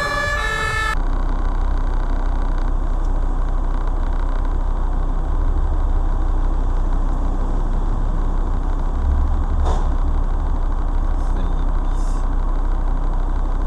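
A fire engine siren wailing for about a second, then cut off. After it, a car engine idling steadily, heard from inside the cabin, with a few brief hisses near the end.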